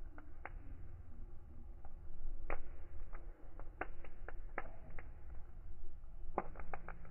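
Wood fire crackling: irregular sharp pops and snaps, with a quick run of them near the end, over a low steady rumble.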